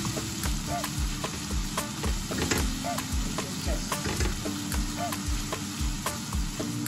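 Chopped onions and garlic sizzling in a pot as a wooden spatula stirs and scrapes through them, over an Afrobeat backing track with a steady beat.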